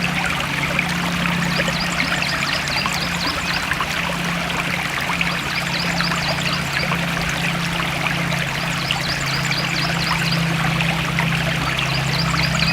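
Forest stream flowing steadily, the water bubbling and trickling over stones.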